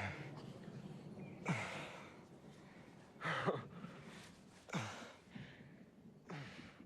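A person sighing heavily about five times, roughly a second and a half apart, each breathy sigh falling in pitch.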